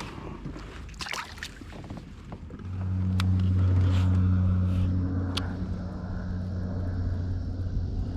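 A motor's steady low hum sets in about three seconds in and holds on, after a few sharp clicks.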